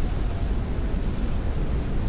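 Heavy rain beating on a window in strong wind: a steady rushing noise with a deep rumble under it.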